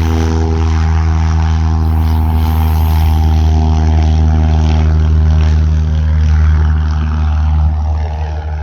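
Light aircraft's piston engine and propeller running loud and steady, a low drone at an even pitch that eases off slightly near the end.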